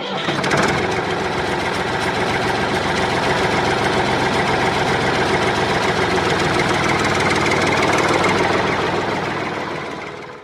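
Small motor of a DIY miniature tractor running steadily with a fast, even rattle as it works a miniature chaff cutter, fading out near the end.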